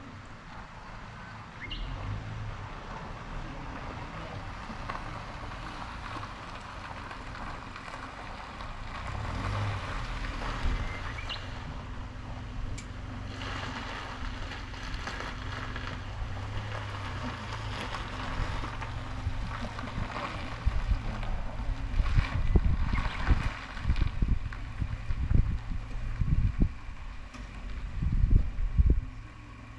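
Motorcycle engine running steadily while riding, with wind buffeting the microphone in loud, irregular gusts in the last third.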